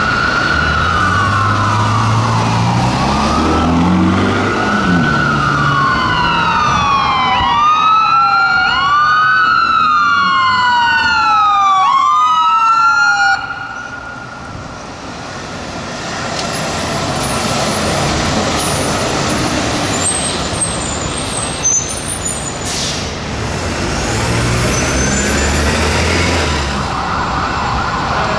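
Two fire engine sirens wailing, each rising and falling, overlapping out of step, then cutting off suddenly about halfway through. Engine and traffic noise follow, with a brief hiss and a truck engine passing near the end.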